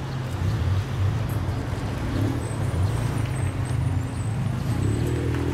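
Lowered cars' engines and exhausts running as they creep past at walking pace, a steady low drone; loudest as a lowered white Lexus RC coupe passes close by.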